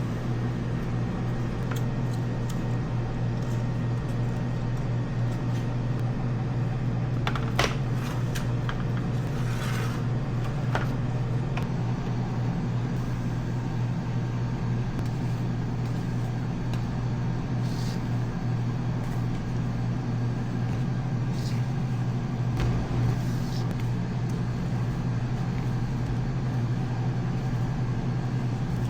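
A steady low machine hum with a few light clicks and knocks over it.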